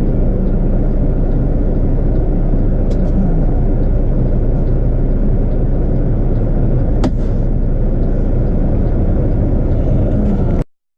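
Steady engine and road noise of a moving vehicle, with a faint click about three seconds in and a sharper click about seven seconds in, cutting off abruptly near the end.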